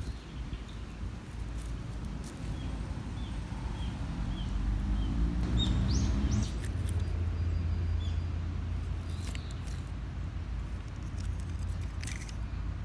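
Outdoor ambience: a bird gives about five short, high chirps, then a quick rising call, over a steady low rumble that deepens into a hum about halfway through.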